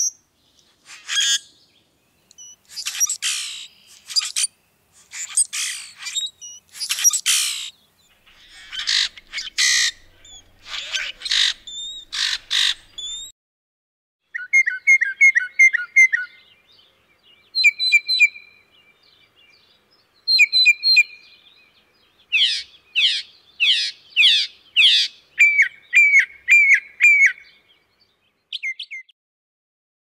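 Recorded calls of two different birds. First comes a series of harsh, rasping calls. From about halfway, a second bird gives clear, repeated chirps and short slurred whistled phrases.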